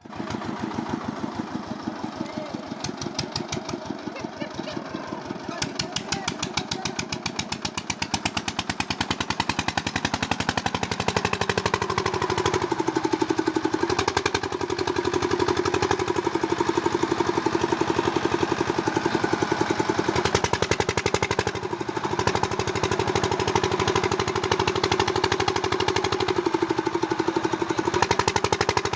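Tractor engine running with a fast, even beat. About 11 seconds in the sound changes and a steady droning tone joins the beat and holds.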